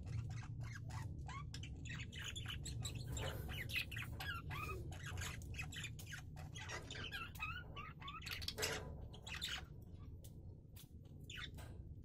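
Small cage birds calling in a rapid run of short chirps and squawks, some sliding in pitch, busiest in the middle, over a steady low hum.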